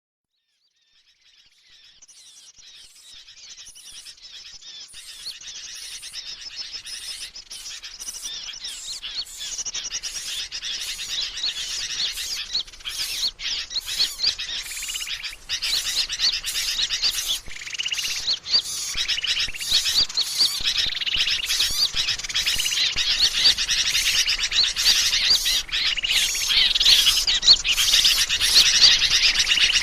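A bird-lure (pikat) recording: a dense chorus of many small birds chirping and twittering rapidly, fading in from silence over the first few seconds and growing steadily louder.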